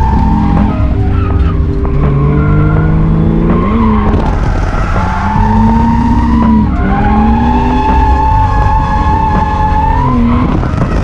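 Ford Barra straight-six in an R31 Skyline drift car held high in the revs, its pitch stepping and swinging up and down, over long, sustained tyre squeal as the car drifts.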